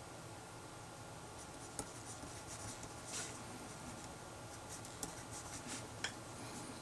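Pencil or pen scratching on paper in short runs of strokes as someone writes out a maths problem, over a faint steady hum.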